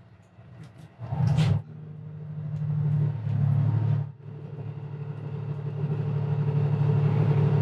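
Hybrid diesel railcar of the Resort View Furusato train running under power, a steady low hum that grows louder, drops away briefly about four seconds in, then builds again. A short hissing rush about a second in.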